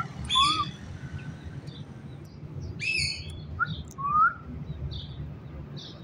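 Birds calling in short, pitched chirps. There are three louder calls, about half a second in, about three seconds in and just after four seconds, with softer chirps between them toward the end.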